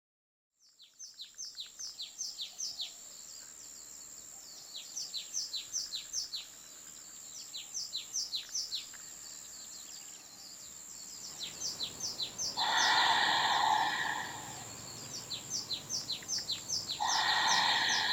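Birds chirping: runs of quick, falling high notes repeated several times a second over a steady high-pitched whine. About two-thirds of the way in and again near the end, a louder rushing noise lasts a second or so.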